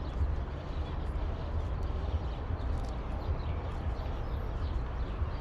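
Pedestrian street ambience: faint voices and scattered footsteps over a steady low rumble.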